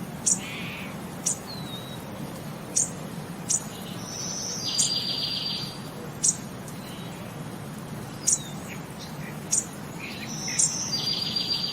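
Small birds chirping: short, sharp, very high chirps every second or two, with a longer buzzy trill twice, over a steady low hum.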